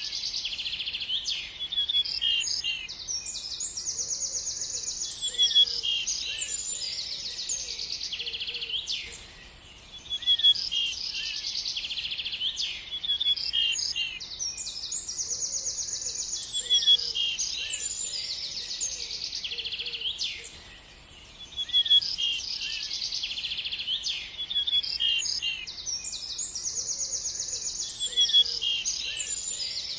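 Small songbirds chirping and trilling, with high, fast rattling trills among the short calls. The same passage repeats about every eleven seconds, with a short lull before each repeat: a looped birdsong recording.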